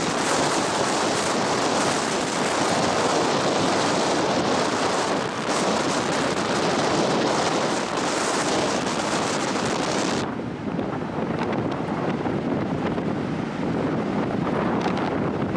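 Strong coastal wind buffeting the microphone, with surf breaking on the beach underneath. About ten seconds in, the hiss in the upper range drops away suddenly as a gust eases, leaving a lower rush.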